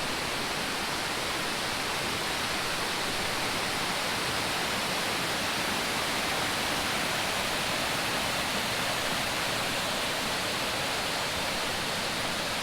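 Waterfall and its stepped cascades rushing steadily, water pouring down into natural pools.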